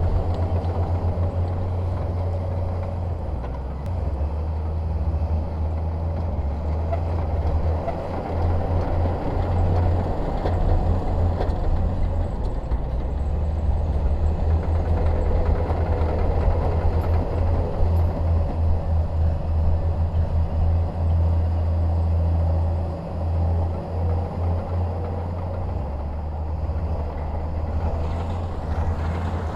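Bulldozer's diesel engine running under load with a deep, pulsing rumble, its level rising and falling as the machine works.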